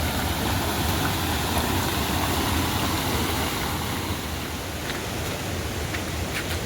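Steady hiss of heavy rain, with a few faint short ticks in the second half.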